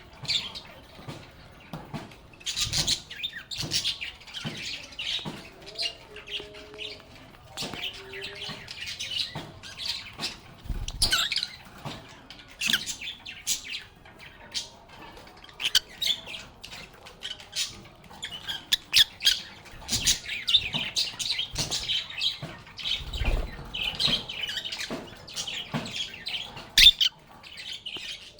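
A group of lovebirds (Agapornis) chirping and chattering without pause, in quick overlapping high calls with sharp squawks mixed in. A couple of low thumps come near the middle and about three-quarters of the way through.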